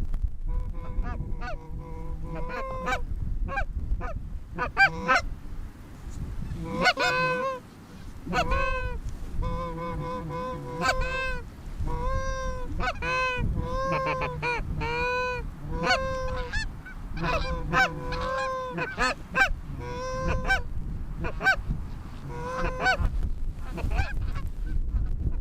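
A flock of Canada geese honking, many short calls repeating and overlapping.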